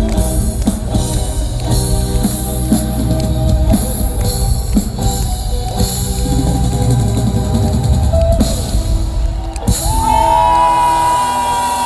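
Rock band playing live, with drum kit and bass. A long held high note sounds from about ten seconds in.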